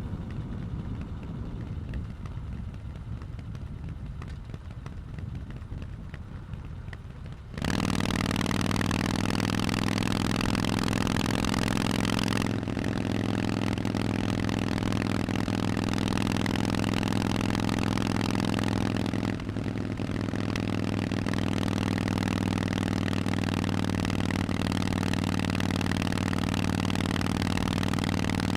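Harley-Davidson Forty-Eight's 1200 cc V-twin through Vance & Hines exhausts. It rumbles low and subdued at first, then about seven seconds in turns suddenly much louder and runs steadily under throttle, with two brief dips partway through.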